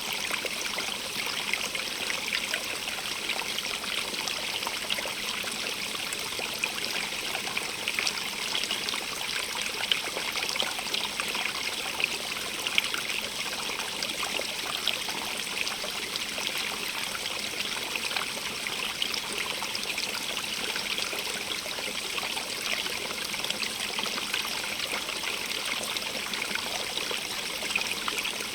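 Small stream running over rocks, a steady splashing and trickling rush.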